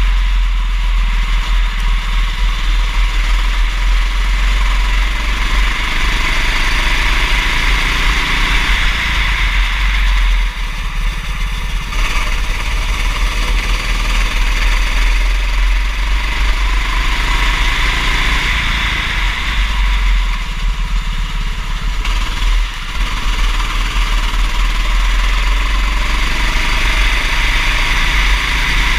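Kart engine running continuously, its pitch rising and falling as it accelerates and lifts off, over a heavy steady low rumble.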